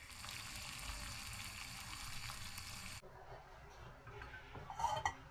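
Food sizzling in a frying pan, a steady hiss that cuts off suddenly about three seconds in. Then quieter kitchen handling with a few light clinks near the end.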